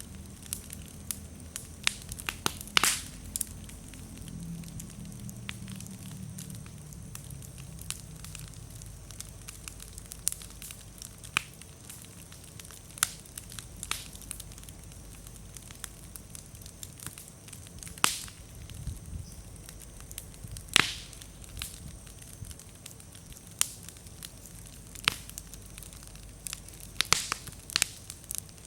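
Wood bonfire burning, with a low steady flame rumble under constant crackling and scattered sharp pops as slightly damp firewood bursts, the loudest pops near the start and around the middle.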